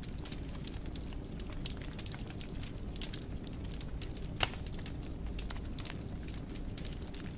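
Wood fire burning in a fireplace: a low rumble of flames under a steady stream of irregular crackles and snaps, with one louder pop about four and a half seconds in.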